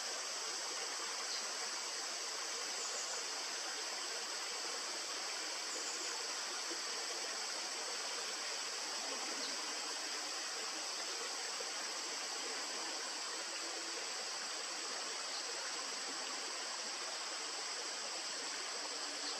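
Steady rush of flowing river water, with a few faint, short, high chirps scattered through it.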